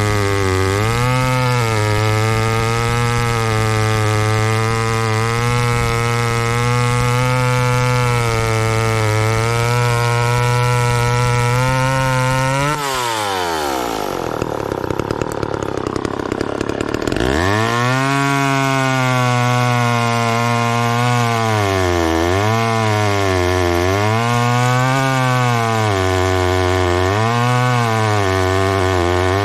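Two-stroke engine of a McCulloch Mac 10-10 chainsaw running at high revs through a cut. About halfway in it drops back toward idle for a few seconds, then is revved up again and cuts on with the pitch rising and falling as the chain loads and frees.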